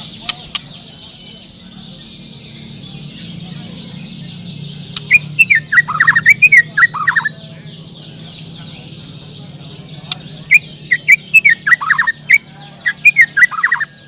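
Many caged songbirds singing at once in a steady high twittering chorus. One bird close by breaks in twice with loud bouts of quick, downslurred whistled phrases, about five seconds in and again about ten seconds in.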